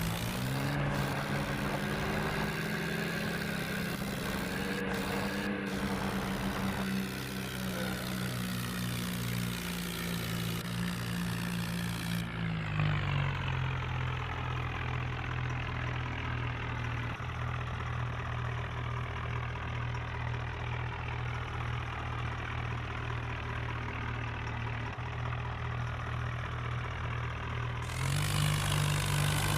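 Tractor engine running steadily, its pitch dropping about twelve seconds in and rising again near the end, with a few sharp clicks in the first six seconds.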